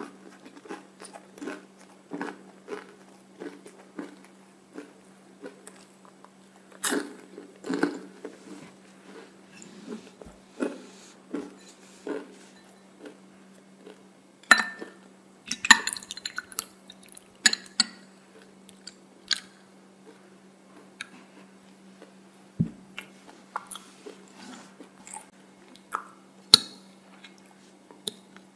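Close-miked chewing and crunching of waffle cone, at about one or two crunches a second. About halfway through come sharp clinks and knocks as bubble tea with tapioca pearls is poured from a glass into a small glass bowl and a metal spoon clinks against the glass. A low steady hum runs underneath.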